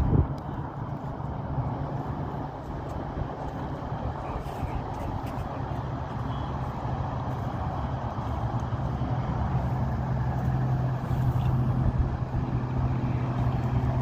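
A motor vehicle's engine running steadily: a low hum over road-like noise that grows a little stronger in the second half, with a short knock right at the start.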